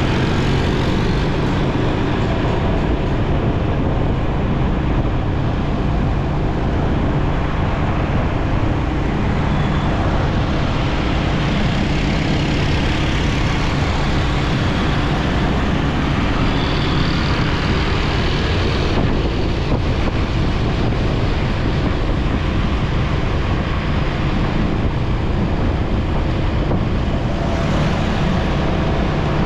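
Motorcycle engine running steadily while riding, with wind noise on the microphone and surrounding road traffic.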